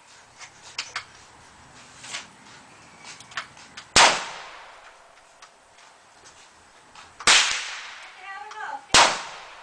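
Three shots from a revolver chambered in .38 S&W, the first about four seconds in and the last two about a second and a half apart, each a sharp crack with a short ringing tail. Several lighter clicks come before the first shot.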